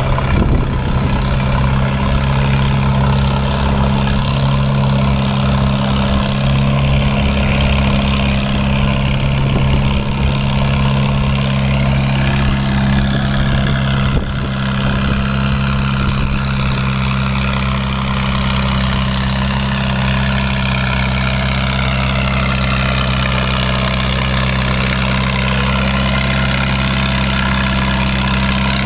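Allis-Chalmers WD45 tractor engine running steadily, with a brief small dip in loudness about halfway through.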